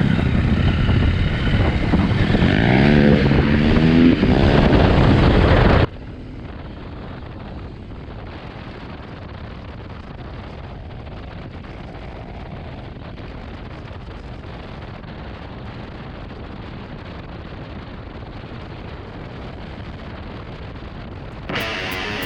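Motorcycle engine revving, its pitch rising and falling for about six seconds, then cut off abruptly. A steady, duller rushing noise follows at a lower level.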